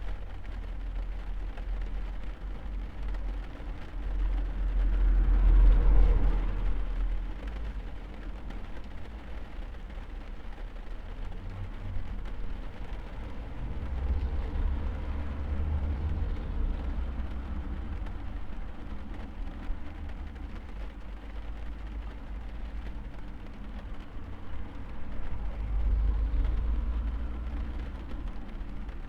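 Rain drumming steadily on a car's roof, heard from inside the cabin. Low rumbles swell and fade three times, the loudest about five seconds in, then near the middle and near the end.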